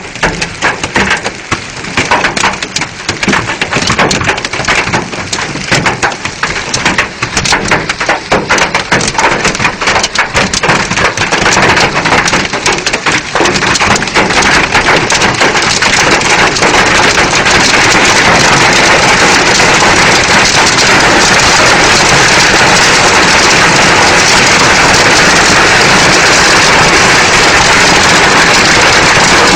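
Heavy rain: at first a dense patter of separate drops hitting a surface, building through the first half into a steady downpour hiss.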